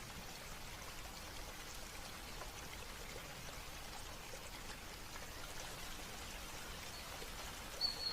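Water trickling and dripping steadily, with many small drips, and one short, high bird chirp near the end.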